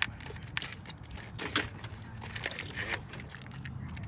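Irregular clicks, light knocks and scrapes of parts being handled and unclipped in an engine bay, the sharpest pair of clicks about a second and a half in, over a steady low hum.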